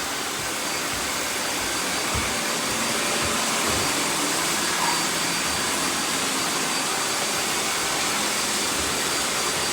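Several robot vacuums running at once: a steady mix of suction-fan whir and brush noise with a faint high whine, plus a few faint low knocks.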